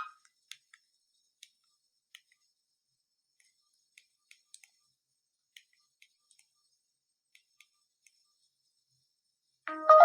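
A phone ringtone cuts off, then a dozen or so faint, scattered clicks from the Maxvi P11 phone's buttons being pressed to step to the next preset ringtone. Near the end the next ringtone, an electronic melody, starts loudly.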